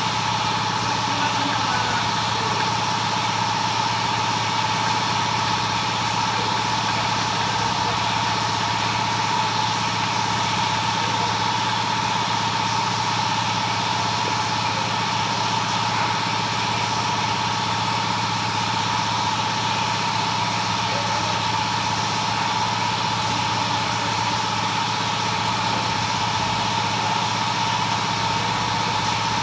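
A large engine idling steadily, with a constant even hum and a steady whine.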